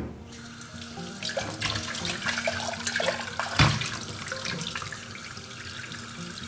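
Kitchen tap running into a sink, with a few knocks and one louder thump about three and a half seconds in.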